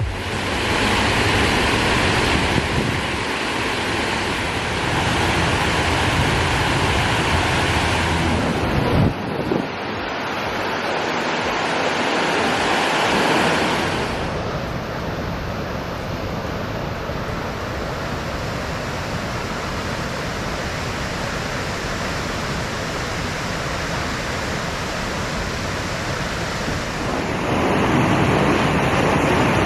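Wind rushing over the microphone: a steady, even noise whose character shifts abruptly a few times.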